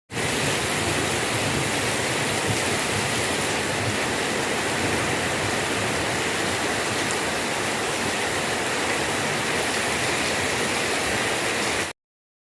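Heavy rain pouring down in a storm, a steady dense rush that starts and cuts off abruptly.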